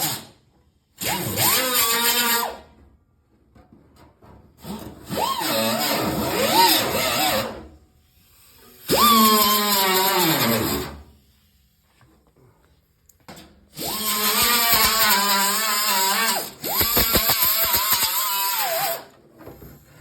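Handheld electric grinder run in five short bursts against the sheet metal of a car's quarter panel, its motor pitch dipping and recovering under load and falling as it spins down after each burst.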